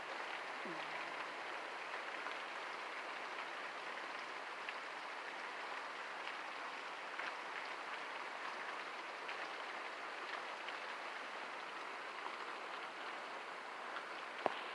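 Steady heavy rain falling: a dense, even hiss of drops with scattered single drop ticks, and one short sharp click near the end.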